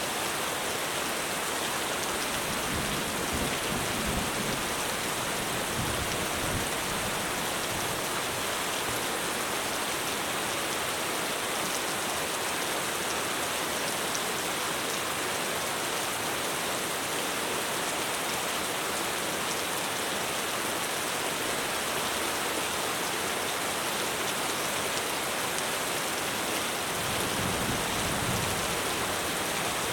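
Heavy rain pouring steadily onto a roof, a dense even hiss. Low thunder rumbles swell under it a few seconds in and again near the end.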